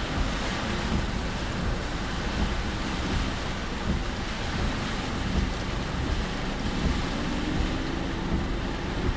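Car driving through heavy typhoon rain: a steady rushing of rain and wind over tyre noise on the wet road, with a faint engine tone rising near the end as the car picks up speed.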